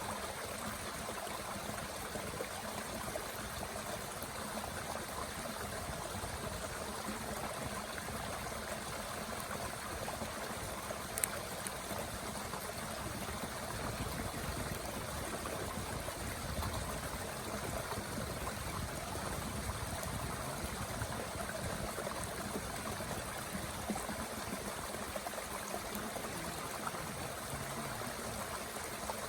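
Mountain stream running steadily, a constant rush of water. A small wood fire in a Bushbox stove pops sharply once about eleven seconds in, with a few fainter ticks later.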